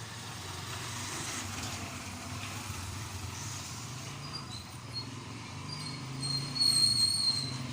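Motorcycle engine running with a steady low hum. About six seconds in, a high, thin whistling tone comes in and becomes the loudest sound.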